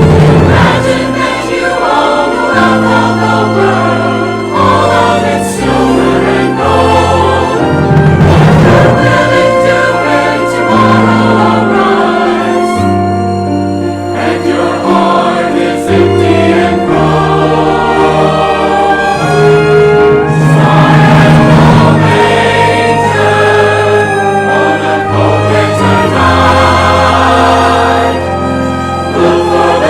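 Choir singing with orchestral accompaniment, loud and continuous through changing chords.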